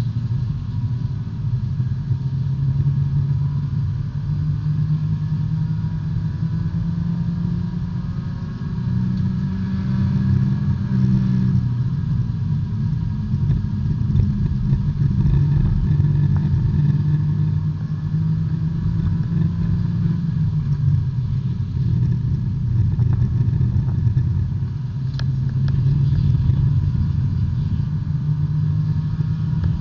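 A small four-cylinder B-Spec race car's engine heard from the cockpit under race load, its pitch climbing and dropping again and again with throttle and gear changes.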